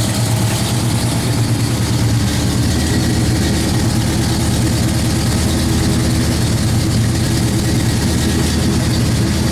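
1977 Jeep J20's AMC 360 V8, fitted with headers and a Flowmaster exhaust, idling steadily.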